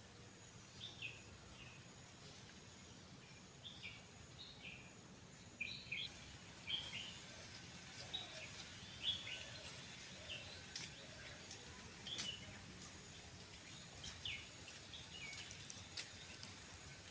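Faint birdsong: short, slightly falling chirps, often in pairs, repeated at irregular intervals over a low steady background hiss.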